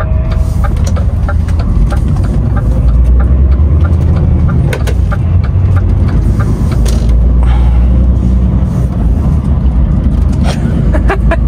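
DAF XF 510 truck's diesel engine running with road rumble, heard inside the cab. A steady run of short ticks, about three a second, sounds in the first few seconds, and a few louder clicks come near the end.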